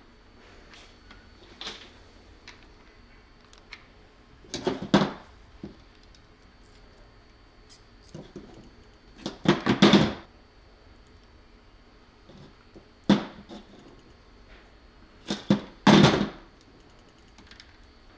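Clicks and clacks of a hand crimping tool squeezing crimp connectors onto wires and of the wires being handled, in short bursts a few seconds apart, the loudest about ten seconds in and near the end.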